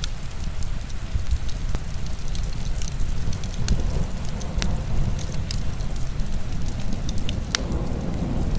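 Heavy rain as a steady low rumbling hiss, mixed with the crackle of a wood fire: scattered sharp pops and snaps at irregular intervals, one of the louder snaps near the end.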